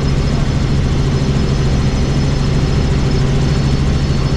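Helicopter in steady flight, heard on board: constant rotor and engine noise with a low hum under a broad rush.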